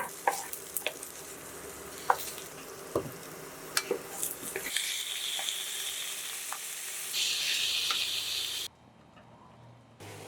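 Food frying in a pan with a steady sizzle, and a utensil clicking and knocking against the pan in the first half. The sizzle cuts off suddenly near the end.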